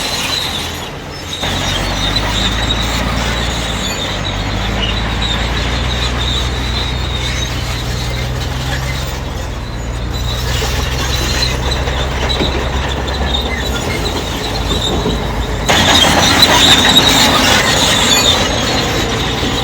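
Crawler bulldozer working, its diesel engine running steadily under the high squeal of steel tracks. The sound grows louder about three-quarters of the way through.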